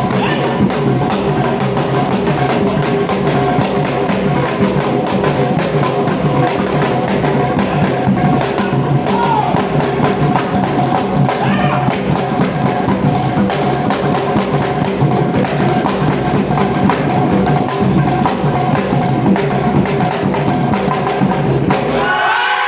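Drum ensemble playing a dense, driving percussion rhythm with sharp clacking strokes over deep drum beats; it stops suddenly just before the end.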